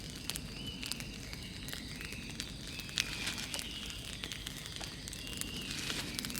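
Large wood bonfire burning, crackling with frequent sharp pops and snaps. Faint high whistling tones come and go.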